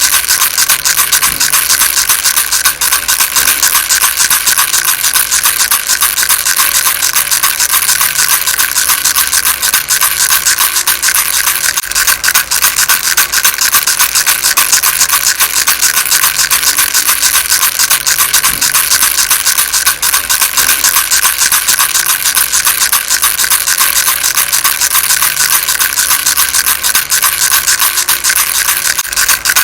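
Baby rattle shaken without pause: a loud, dense, fast rattling, mostly high-pitched, that stays steady throughout.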